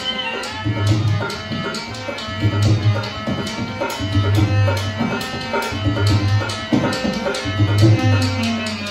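Live Rajasthani folk music for a puppet show: a hand drum keeps a quick, even beat with deep bass strokes about every second and a half, under a held melody line.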